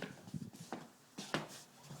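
A few short, light knocks and clicks, the loudest about a second and a half in.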